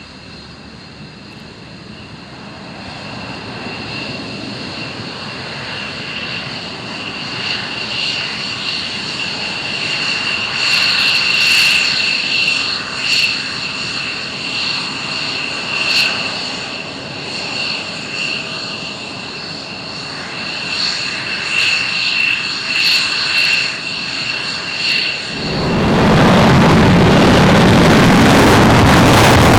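Military aircraft's turbine engines running up for takeoff: a steady high whine over a growing rumble that swells and fades. About 26 seconds in, a sudden loud rough noise covers everything.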